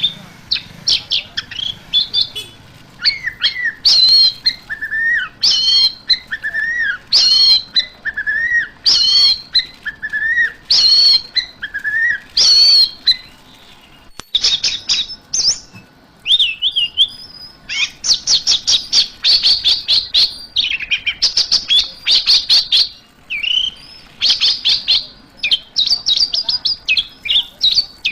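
Orange-headed thrush singing loudly. For the first half it repeats one short whistled phrase about every two seconds; after that it breaks into long runs of fast, high trills and chattering notes.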